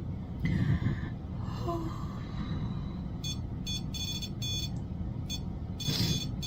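A run of short, high electronic beeps, several in quick succession about halfway through, over a steady low hum, with a brief rustle near the start and again near the end.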